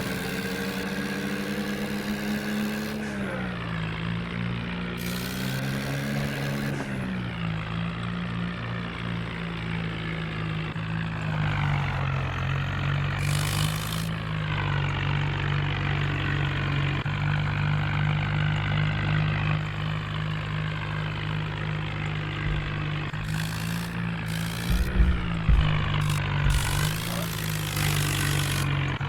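Swaraj diesel tractor engine running steadily, its pitch dipping and rising as the revs change, with a few short knocks near the end.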